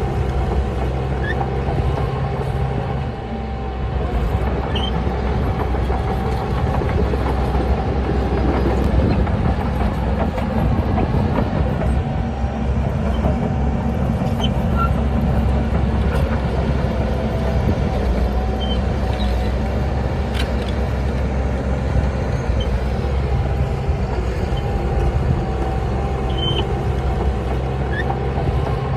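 Heavy diesel engine of a Shantui DH17C bulldozer running steadily, with a continuous wavering machine whine above the deep engine rumble.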